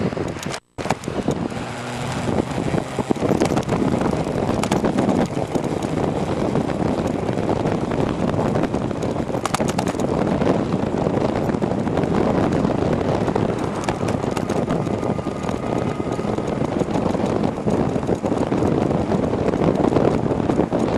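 Wind rushing over the microphone together with tyre and road noise from an e-bike riding along at speed, a steady rushing with a brief cut-out about a second in.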